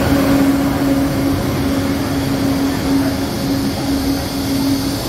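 Electric high-speed train standing at the platform just after arriving, its machinery giving a steady hum with a constant low drone.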